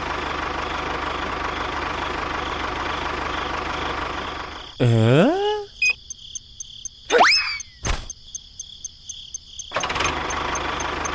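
A small engine running steadily, cutting out for about five seconds in the middle. In the gap come a loud tone that rises then bends and falls away, a quick rising whistle, a sharp click and faint regular ticking, before the engine sound resumes near the end.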